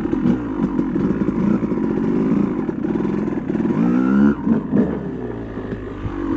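Yamaha YZ250 single-cylinder two-stroke dirt bike engine running under way, revving up sharply in pitch about four seconds in, then easing off.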